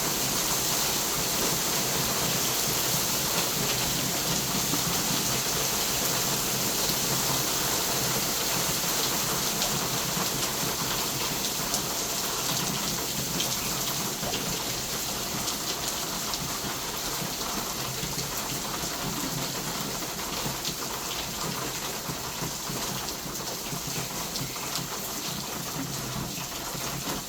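Heavy hurricane rain falling steadily, a dense hiss of many small drop impacts, easing slightly toward the end.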